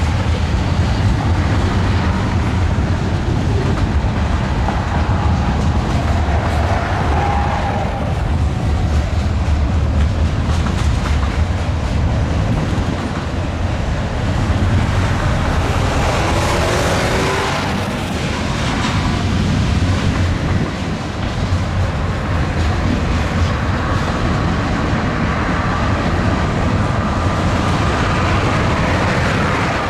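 Freight cars of a Canadian National manifest train rolling past at track speed: a steady rumble of steel wheels on rail, with faint thin squealing tones that drift in and out.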